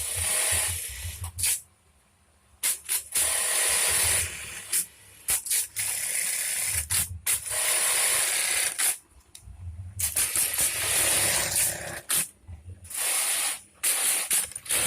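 Juki LK-1850 industrial bartack sewing machine running test cycles in stop-start bursts of a second or two with short pauses between, a mechanical rattle over a high hiss.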